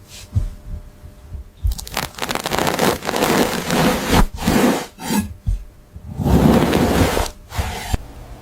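Rough scraping and rubbing noises in irregular bursts of a second or two each, with a few sharp knocks between them.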